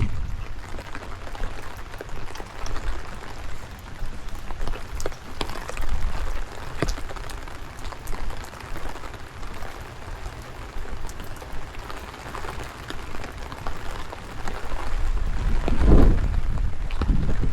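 Steady rain with many sharp raindrop ticks, and gusts of strong wind rumbling low on the microphone, the strongest gust near the end.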